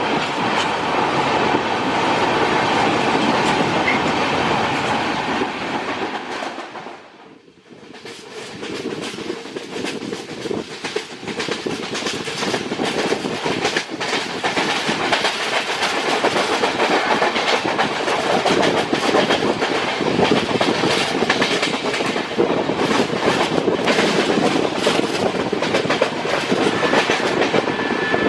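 Passenger train running along the track: a steady rumble with the clickety-clack of wheels over rail joints. The noise falls away briefly about seven seconds in, then comes back with a denser clatter of clicks.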